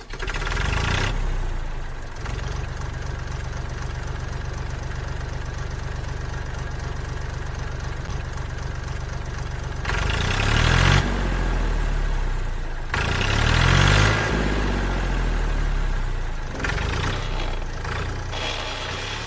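Tractor engine running at a steady idle, revving up and back down twice, about ten and thirteen seconds in.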